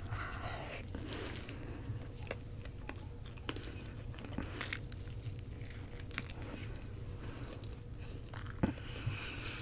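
A person chewing roti close to the microphone, with small wet mouth clicks scattered throughout and one sharper knock near the end, over a steady low hum.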